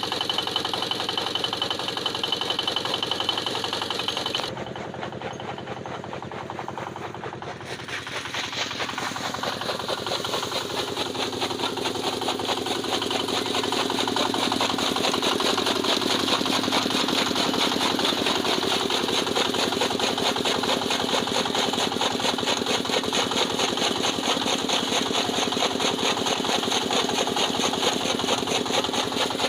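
Petter stationary diesel engine running with a fast, even knocking beat. About four seconds in the sound drops abruptly, then builds back up over several seconds and runs steadily and louder.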